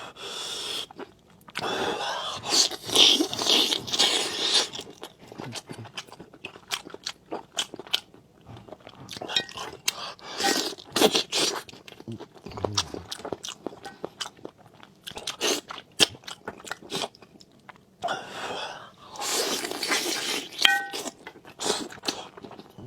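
A person eating close to the microphone: repeated crunching bites and chewing, with many short clicks and a few louder stretches of crunching.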